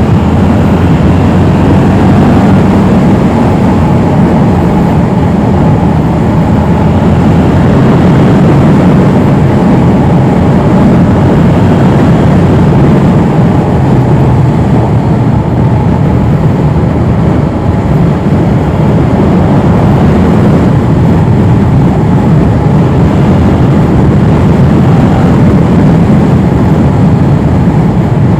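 Yamaha R7 motorcycle being ridden at a steady pace: the engine is running, with loud, steady wind rush on the microphone.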